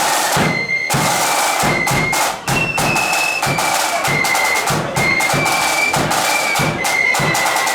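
Marching flute band playing: high flutes carry a stepping tune over a steady beat of snare and bass drums.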